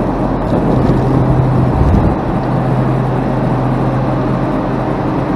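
Diesel plow truck idling: a steady low hum under a steady rushing hiss, with a brief low swell about two seconds in.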